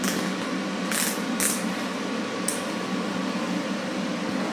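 Welder humming steadily, with a few short hissing crackles as the arc is struck.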